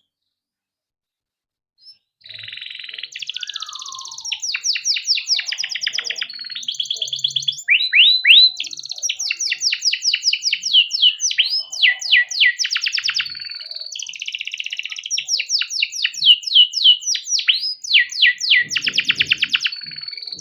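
Domestic canary singing a long, unbroken song of fast trills and rapid downward-sweeping notes, starting about two seconds in.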